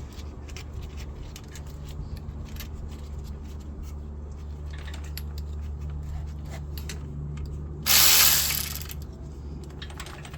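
Ratchet wrench clicking in short, irregular runs while a fastener on the engine is worked loose, over a steady low hum. About eight seconds in comes a loud hiss lasting about a second.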